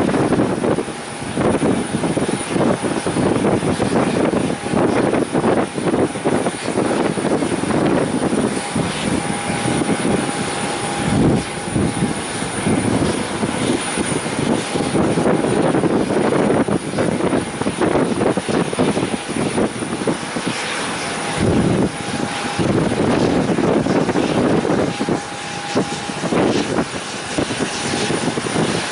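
Strong wind buffeting the microphone, a continuous rumbling roar that surges and dips irregularly with the gusts.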